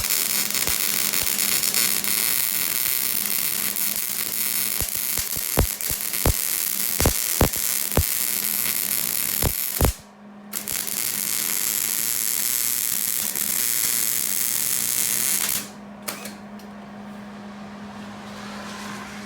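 Hobart Handler 190 gas-shielded MIG welder arc welding a rusty exhaust flange: a steady crackling hiss with several sharp pops in the first run, stopping briefly about ten seconds in, then a second run that cuts off a few seconds before the end. A steady low hum sits underneath throughout.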